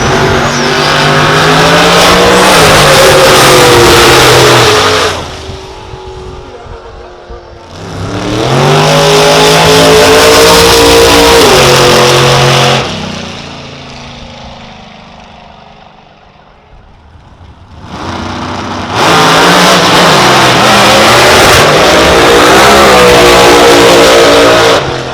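Drag racing cars under full throttle: three loud runs of about five seconds each, the engine pitch climbing and dipping, with quieter gaps between them.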